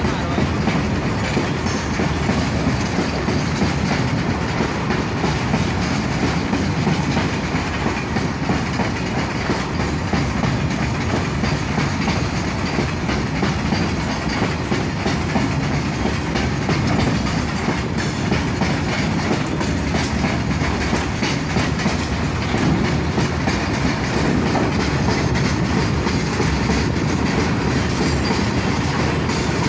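Open-top freight wagons of a long train rolling past on the adjacent track, their wheels running steadily over the rails at an even level.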